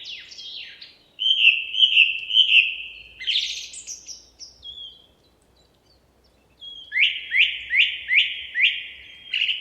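Songbird singing: a warbling phrase, a pause of about a second and a half, then a run of five or six quick repeated notes, each falling in pitch.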